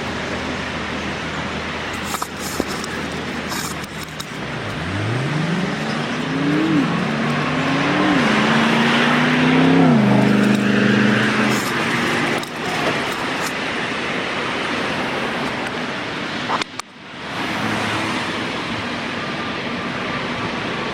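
A car engine accelerating away, its pitch climbing and dropping back three times as it shifts up through the gears, then settling into steady road and tyre noise.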